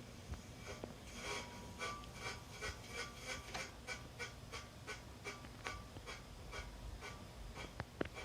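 Hunter Original ceiling fan running on low with a rhythmic scrape, about three a second, over a low hum. The scraping is new-fan noise that the owner hopes will go away once the oil in the motor settles.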